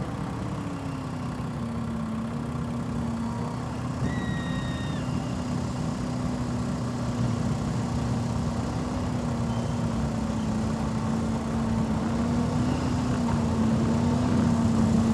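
Pickup truck engine at a truck pull, held at steady revs under load as the truck drags the pulling sled, growing gradually louder.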